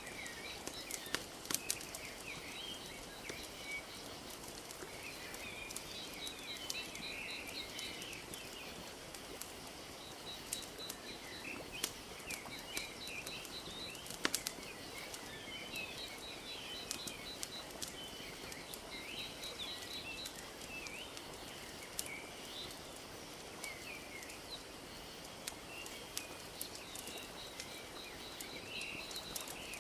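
Wood fire crackling with scattered sharp pops over a steady soft wash of lapping lake water, while small birds chirp and give quick trilling calls.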